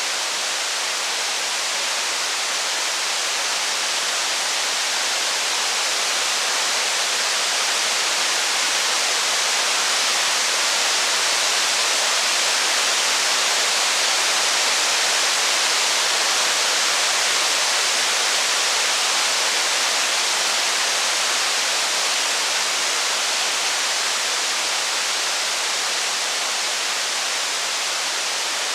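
Heavy rain falling as a steady, dense hiss, swelling slightly in loudness around the middle.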